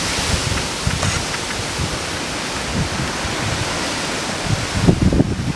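Gusty storm wind of about 40 mph from an approaching hurricane, with moderate rain, making a steady rushing hiss. The wind buffets the microphone in low rumbles that are heaviest near the end.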